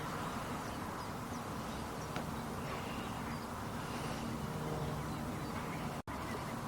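Steady wetland background hiss with faint calls of waterbirds such as ducks. The sound cuts out for an instant near the end.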